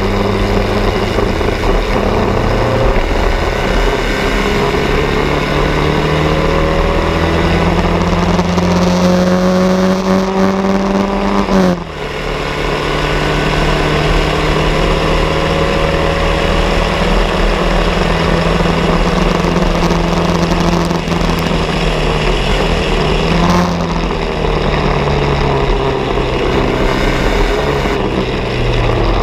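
Bianco race car's engine running hard, its pitch climbing steadily for about ten seconds, then dropping sharply at a gear change. It then holds fairly high revs, with a brief dip about two-thirds of the way through.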